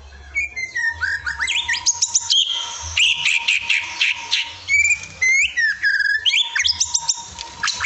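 A songbird singing a fast, varied song of sharp chirps, rising whistles and quick trills, one phrase after another with barely a gap, as in a bird-song training recording.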